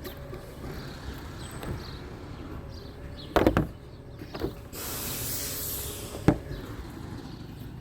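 Garbage truck at work: loud knocks about three and a half seconds in, then a hiss lasting about a second and a half, ending in a single sharp clack.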